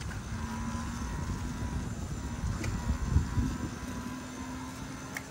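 Street traffic: a motor vehicle's engine hum over low rumbling noise, swelling about halfway through and fading again.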